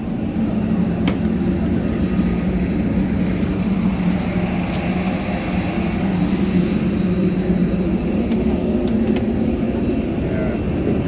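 Steady rumble and hum of an airliner at the airport, with a few faint clicks.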